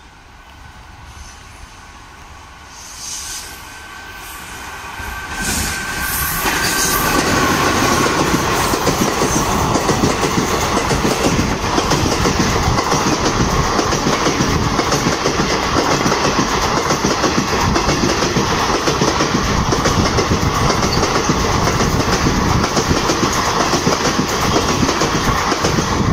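An express passenger train hauled by an electric locomotive approaching and passing close by: a rumble growing louder with a high whine as it nears, then from about six seconds in a loud, steady rush of coaches with the clickety-clack of wheels over rail joints.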